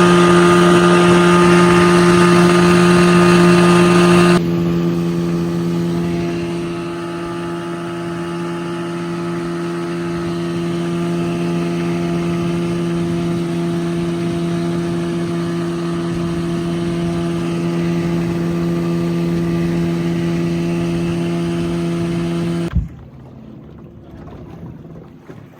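Outboard motor running at a steady high speed as the boat moves along. About four seconds in, the pitch and level step down slightly. Near the end the engine sound cuts off, leaving wind on the microphone.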